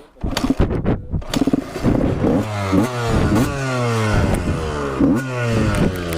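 Dirt bike engine revving up and down again and again as it is ridden, after a few clicks and clatters in the first second.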